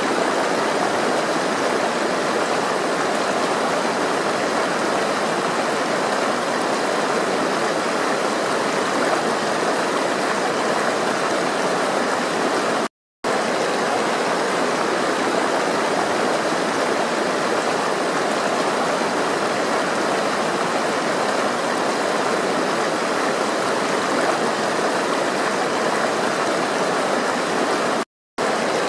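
Flowing water rushing steadily, like a stream. It cuts out to silence for a split second twice, once about halfway through and once near the end.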